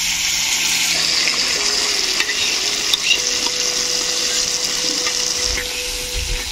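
Wet spice paste (ground spices mixed with a little water) sizzling in hot oil in a kadai, a steady hiss that eases somewhat near the end.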